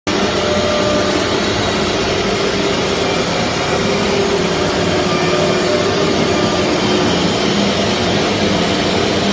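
Four-spindle CNC router running, a steady mechanical noise with several held tones of its spindles and drives.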